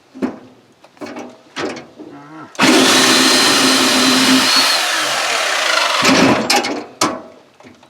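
Corded electric chainsaw blipped on and off a few times, then run steadily through a cut in firewood for about three and a half seconds before stopping abruptly, followed by two more short blips.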